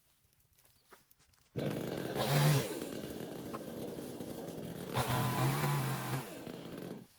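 Chainsaw engine running, revving up and back down twice. It starts abruptly about a second and a half in and stops just as suddenly near the end.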